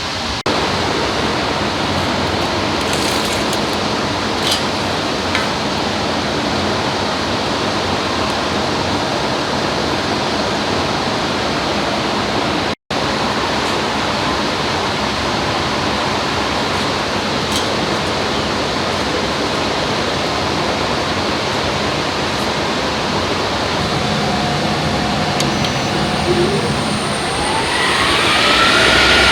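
Steady, loud rushing noise from shop machinery, cut off for an instant about halfway through. Near the end a motor whine rises in pitch as something spins up.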